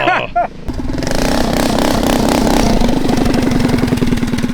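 Mini trike's 212cc Predator Ghost single-cylinder engine running hard at high revs, coming in loudly under a second in and holding a steady pitch.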